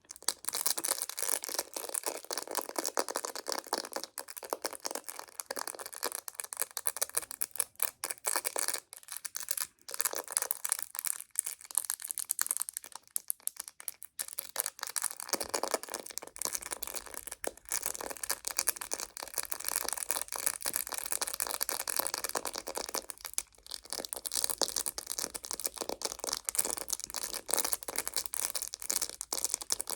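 Close-miked ASMR handling sounds: a dense, continuous crackle of crinkling and light tapping that starts abruptly. A faint low hum joins about halfway through.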